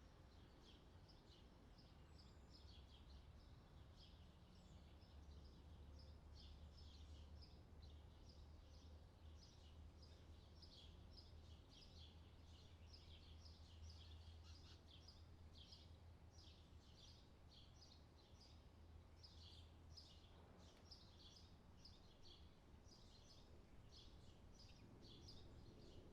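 Faint forest birdsong: many short, high chirps in quick succession throughout, over a low steady hum.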